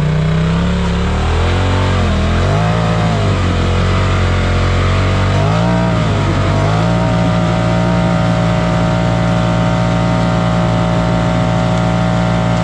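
Off-road vehicle engine revving under load while climbing a rock: the revs rise and fall several times, then hold steady and high for the last several seconds.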